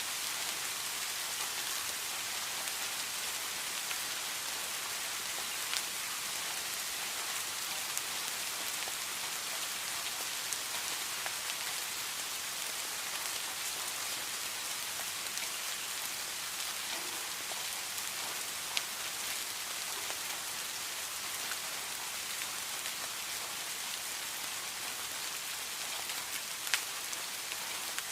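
Steady rain falling, an even hiss with scattered louder single drops hitting a surface now and then.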